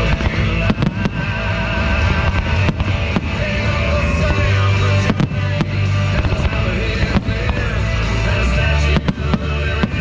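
Fireworks shells bursting, about ten sharp bangs at irregular intervals, over loud rock music.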